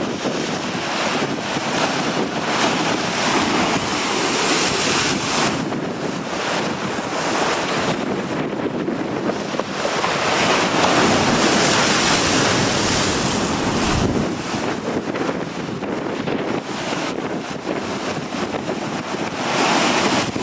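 Strong gusty wind blowing across the microphone, swelling and easing, strongest about halfway through, with waves breaking on the shore mixed in.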